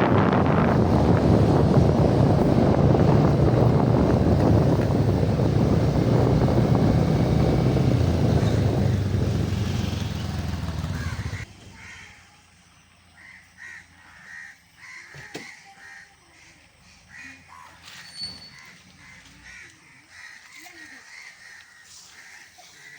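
Loud wind buffeting the microphone over a low rumble, cutting off abruptly about halfway through. After that comes quiet outdoor ambience with crows cawing repeatedly.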